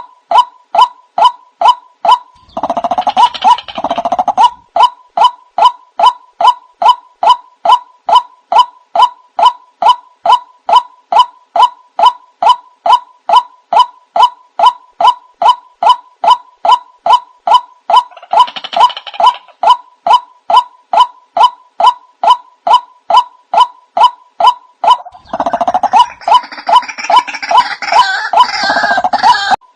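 White-breasted waterhen call played as a trapping lure: a monotonous series of short pitched notes, about two a second. Louder, rougher bursts of calling break in three times: near the start, midway and near the end.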